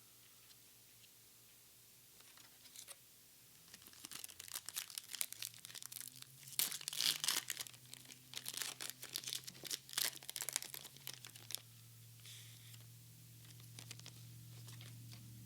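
Foil Pokémon card booster pack being torn open and its wrapper crinkled: a dense run of sharp crackles that starts a few seconds in, is loudest in the middle and fades out before the end.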